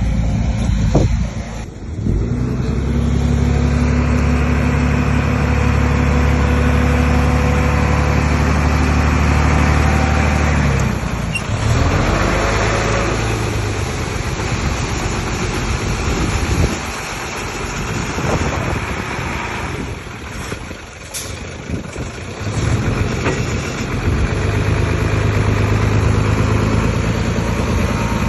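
Heavy diesel earthmoving machinery running under changing load. A strong, steady engine drone builds about two seconds in and holds for roughly nine seconds, eases off and wavers through the middle, then strengthens again near the end.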